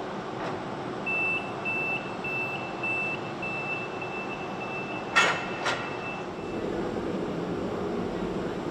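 Steady factory-floor machinery hum with a high electronic warning beeper repeating about every half second, and two sharp clanks about five seconds in.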